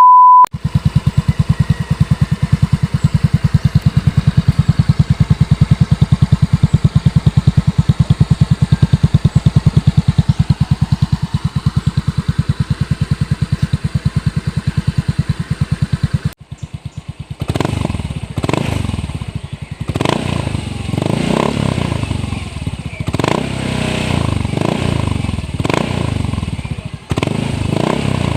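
Yamaha Mio i 125 scooter's single-cylinder four-stroke engine, breathing through an Apido V3 aftermarket exhaust, idling with a steady, even pulsing beat. After a break about 16 seconds in, it is revved in a series of throttle blips, each rising and falling.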